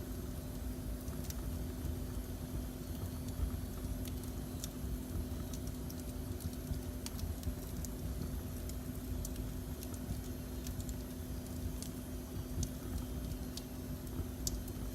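Wood fire burning, with a steady low rumble and scattered sharp crackles and pops, about ten of them at irregular intervals. A faint steady hum runs underneath.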